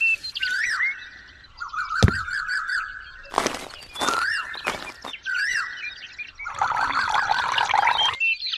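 Birds chirping and singing in wavering trills and short rising calls, with a sharp click about two seconds in and a few sharp knocks around the middle.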